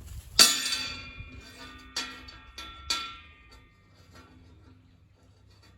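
Metal clanging: one loud clang about half a second in that rings on for over a second, then three lighter clanks, each ringing briefly. Heavy scrap steel parts being handled and knocked together.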